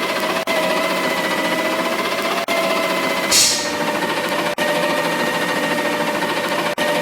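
Garbage truck running steadily with a mechanical whine, and a short burst of hissing air about three seconds in.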